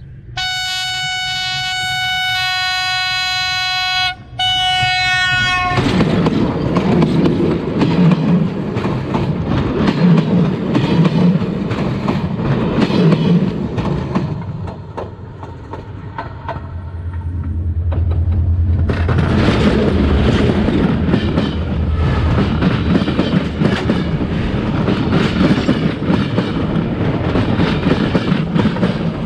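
Train horn sounding a long chord, broken briefly about four seconds in and resumed for a shorter blast. The train then runs over the track with a heavy rumble and clacking of wheels on rail, easing off around the middle and coming back loudly for the last ten seconds as the wheels roll right overhead.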